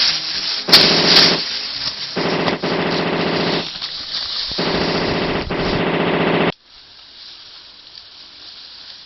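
Automatic gunfire: a few sharp single cracks, then long rapid bursts that stop abruptly about six and a half seconds in.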